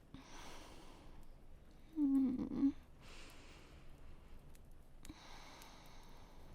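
A woman breathing softly close to the microphone, with a short hummed vocal sound about two seconds in. Underneath is a faint, steady wind-and-rain ambience.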